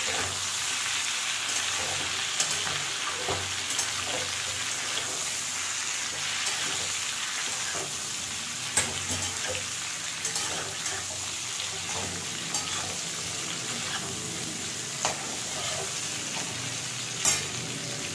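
Raw green mango pieces sizzling steadily as they fry in oil in a metal kadai on medium flame. A metal spatula stirs them, scraping and clicking against the pan, with sharper knocks about 9 seconds in and near the end.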